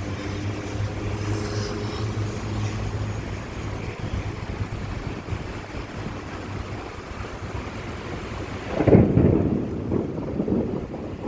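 Heavy rain hissing steadily during a thunderstorm, with a low hum dying away in the first few seconds. About nine seconds in, a sudden loud thunderclap breaks out and rumbles on to the end.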